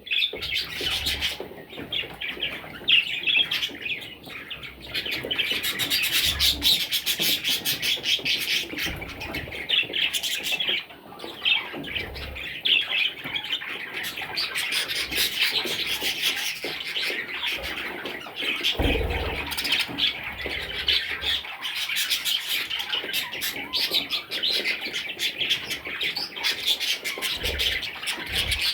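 Baby budgerigars chirping and squawking in a constant chatter, with a dull bump about two-thirds of the way through.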